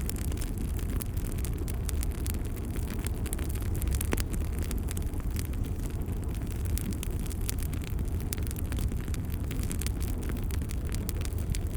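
Wood fire burning in a fireplace: a steady low rumble of flames with frequent sharp crackles and pops, one louder pop about four seconds in.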